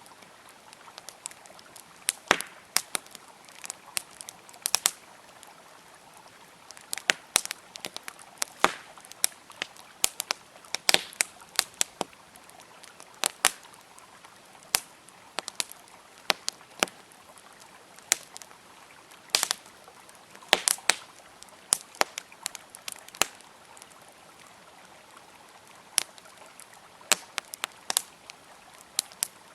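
Wood campfire crackling with irregular sharp pops and snaps, some much louder than others, with a brief lull about two thirds of the way through. Under it runs a faint, steady rush of flowing river water.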